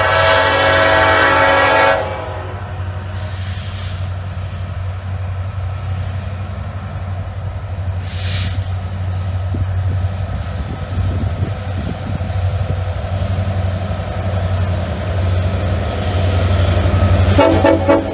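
BNSF diesel freight locomotives sounding their air horn in a long blast, then a short one, over the steady drone of their engines. The engines grow louder as the locomotives come by, and the horn sounds once more briefly near the end.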